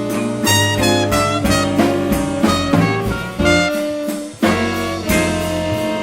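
Small jazz combo playing a blues live: saxophones and trumpet play phrases together over walking bass and drums. A short break about four seconds in is followed by a sharp ensemble entry.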